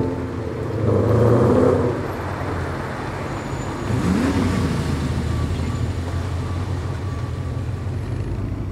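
Car engine idling with a steady low rumble, revved up and back down once about four seconds in.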